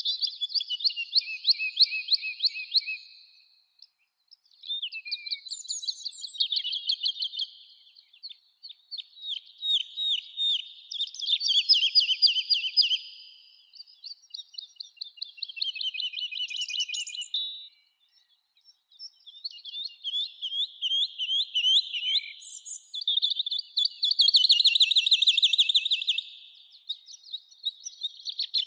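Songbirds singing in a summer forest: repeated phrases of rapid high chirps and trills, each lasting about three to four seconds, separated by short pauses.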